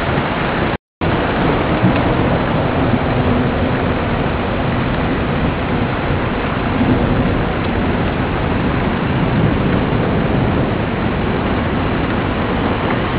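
Heavy rain in a thunderstorm: a steady, loud hiss of rain with a low rumble underneath. The sound cuts out completely for a moment just under a second in.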